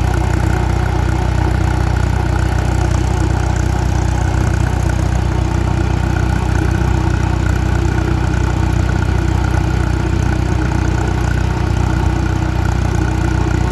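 Allis-Chalmers WD tractor's four-cylinder gasoline engine running steadily while the tractor is driven along, heard close up from the driver's seat.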